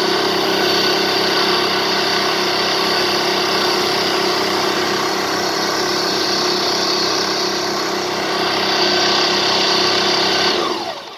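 Demon Tornado mini washing cart's motor running steadily, then switched off about ten and a half seconds in, its pitch falling as it winds down.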